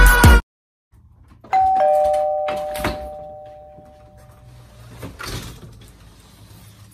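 A two-note ding-dong door chime rings about a second and a half in and fades over about three seconds, followed by clicks and knocks as the front door is opened.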